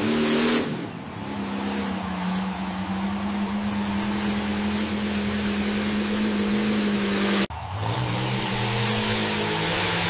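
Heavy dump truck diesel engine running with a steady note, broken by an abrupt cut about three-quarters of the way through, after which a different engine note follows.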